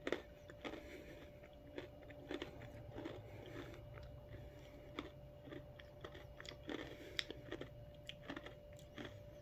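Faint close-up chewing and crunching of a bite of a Reese's peanut butter cup with pretzel pieces in it, in irregular small crunches; the pretzel bits give it a nice crunch.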